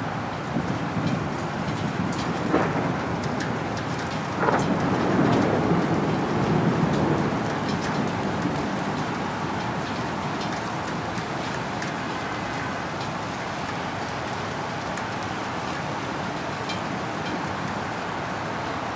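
Steady rain falling, with a rumble of thunder that rolls in about four and a half seconds in and fades over the next few seconds.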